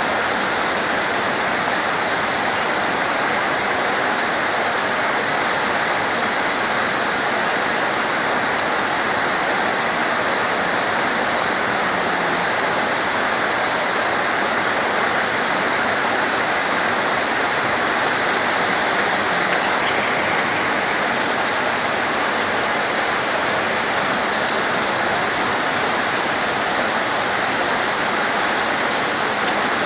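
Heavy torrential rain pouring down in a dense, steady hiss.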